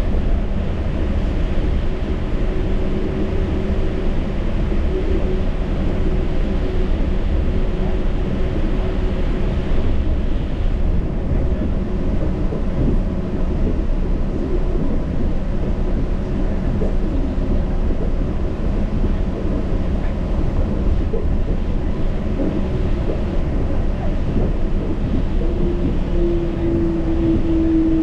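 Yurikamome Line automated train running on its rubber tyres along the concrete guideway, a steady rumble with a faint motor hum. A clearer motor whine stands out for about two seconds near the end.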